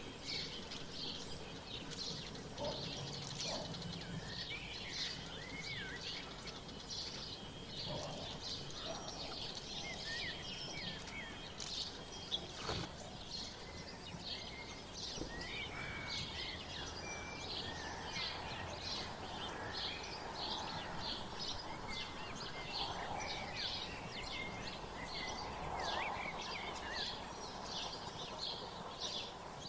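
Many small birds chirping together in a dense, continuous chorus of short high chirps, with now and then a lower whistled note that slides in pitch. A single sharp click about twelve seconds in.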